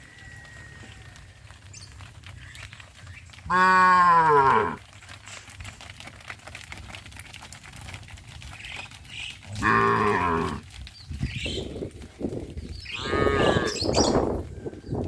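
Cows mooing: three long moos of about a second each, the first, about three and a half seconds in, the loudest and falling in pitch as it ends, the others around ten and thirteen seconds in.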